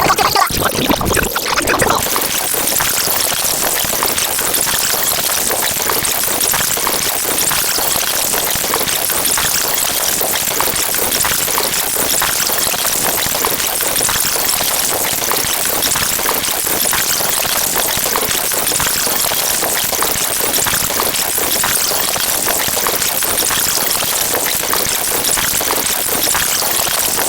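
A loud, steady hissing noise, starting about two seconds in after a few sliding tones.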